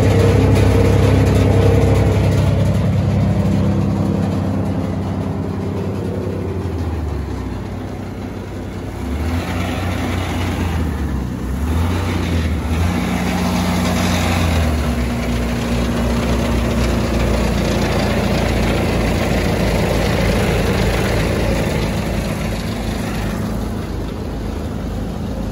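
Deutz diesel engine of a Vermeer BC1000 woodchipper running, its speed dropping and rising several times partway through, then holding steady.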